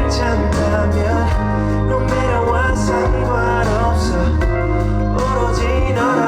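Live band playing a song with a steady beat: bass and drums under a melody line.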